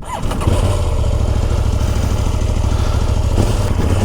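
KTM Duke motorcycle engine running steadily at low revs, coming up to strength about half a second in and holding an even note.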